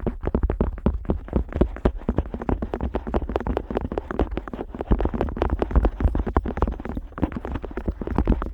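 Otoscope tip rubbing and pressing on the silicone outer ear of a Neumann KU100 dummy-head microphone, heard right at the ear: a dense, uneven run of crackling scrapes and soft thumps over a low rumble.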